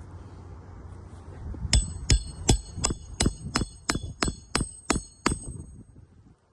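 Hammer striking metal eleven times at a steady pace of about three blows a second, each blow ringing with a high metallic tone.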